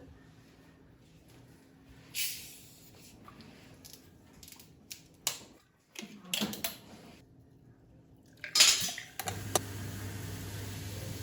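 Kitchen handling sounds: several separate clinks and clatters of dishes and cutlery being set down and moved. About nine seconds in, a steady low hum starts and holds.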